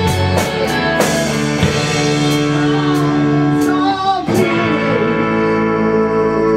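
A rock band playing, with held guitar chords ringing on and a brief dip and chord change about four seconds in.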